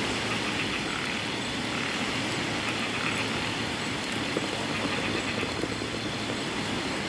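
Steady rain with gusting wind through coconut palm fronds: an even, continuous hiss.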